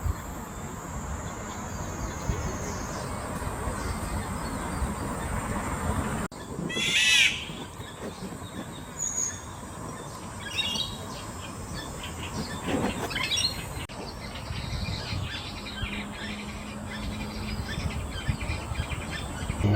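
Black-naped orioles calling: one loud, harsh, nasal squawk about seven seconds in, followed by scattered short high chirps.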